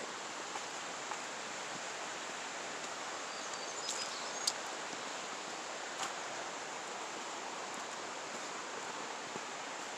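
Steady, even rush of flowing water from a creek, with a few light clicks and taps about four and six seconds in.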